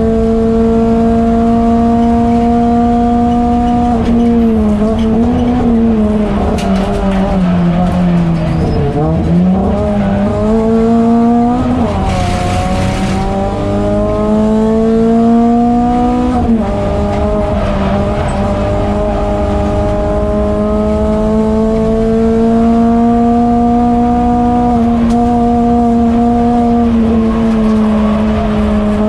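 Renault Clio 200 race car's 2.0-litre four-cylinder engine running hard on track. The pitch falls away and wavers under braking and downshifts through the first third, climbs again, steps abruptly at a gear change about halfway, then rises slowly and steadily down a long straight.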